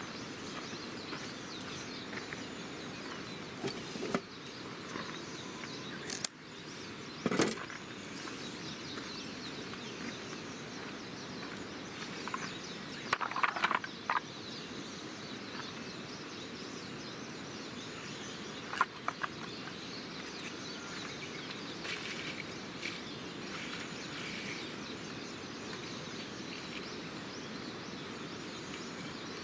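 Wood campfire burning with a steady hiss and sharp crackles and pops now and then.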